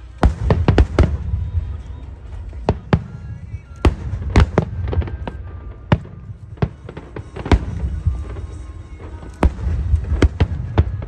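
Fireworks bursting: a quick cluster of sharp bangs right at the start, then single and paired bangs every second or so, over a low rumble.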